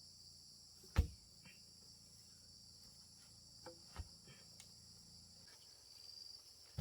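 A steady high chorus of insects in the forest, with a single sharp knock about a second in and a second, smaller knock near four seconds.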